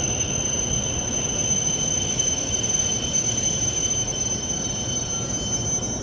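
Hokuriku Shinkansen train running along the platform: a steady low rumble with a steady high-pitched whine over it.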